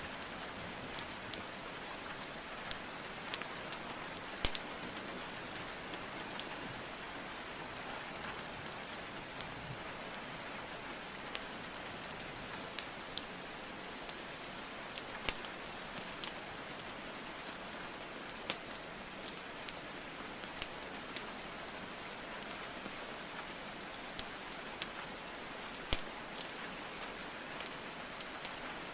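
Steady rainfall with the irregular sharp crackles and pops of burning wood logs in a fireplace, a few clicks every second and now and then a louder pop.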